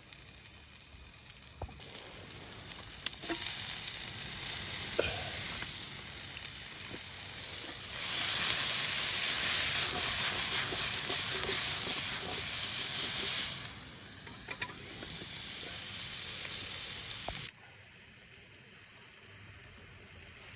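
Shishito peppers sizzling as they cook over a campfire, with a few sharp pops. The sizzle swells louder partway through, eases, then cuts off abruptly near the end.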